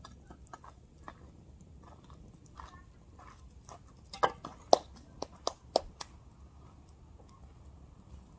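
Firewood burning in a campfire, crackling with scattered small snaps, then a quick run of about six loud sharp pops around the middle.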